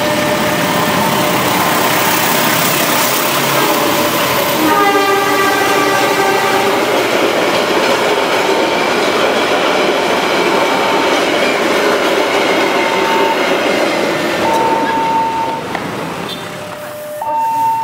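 Passenger train passing over a level crossing, a steady noise of wheels and coaches, with the locomotive's horn sounding for about two seconds about five seconds in. The crossing's two-tone warning signal sounds on and off through it, and the train noise dies down near the end.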